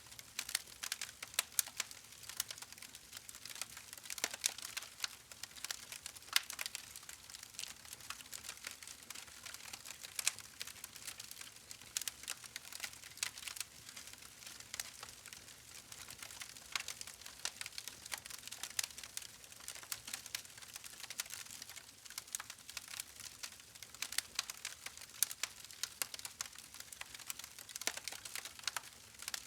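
Wood fire crackling: dense, irregular snaps and pops over a soft hiss.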